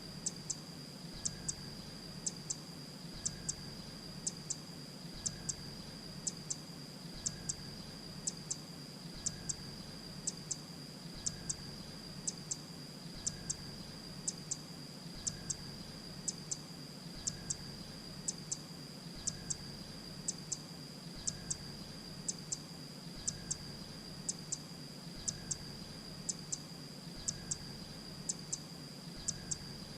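Grey-breasted prinia calling: short, very high, sharp notes in pairs or threes, repeated evenly about once a second, over a steady thin high tone and a low hum.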